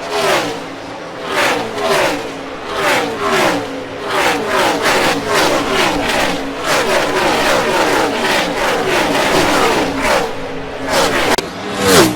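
NASCAR Cup cars' V8 engines passing at racing speed, one after another, each engine note dropping in pitch as it goes by. In the middle a close pack streams past, so the passes run together into a steady sound.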